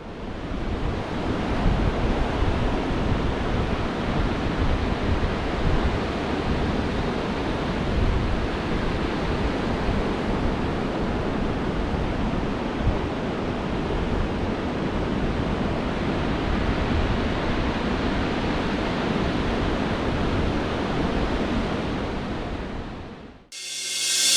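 Steady rushing noise that fades out near the end, followed by the start of electric piano music.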